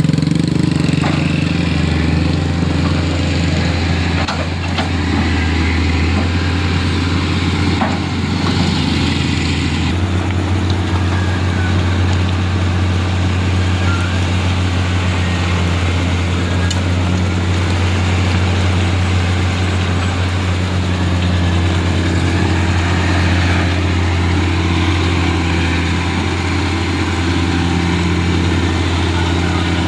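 A heavy engine running steadily at a constant low pitch, its tone shifting slightly about ten seconds in.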